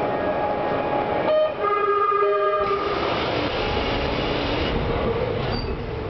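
A tonal buzzer or horn inside a Kintetsu 3220 series train sounds once, about a second in, for just over a second. After it the train's low running rumble grows louder.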